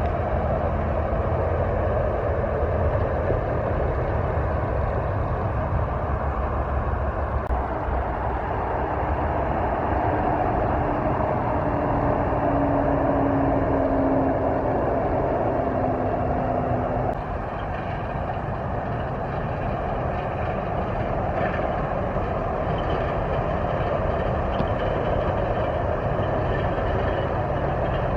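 Heavy truck engine and road noise running steadily, with a humming tone that sinks slightly in pitch through the middle. The sound drops a little and changes abruptly about two-thirds of the way through.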